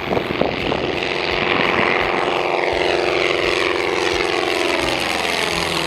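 Piper Warrior single-engine propeller plane at full climb power just after takeoff, its engine and propeller drone falling steadily in pitch as it passes and moves away.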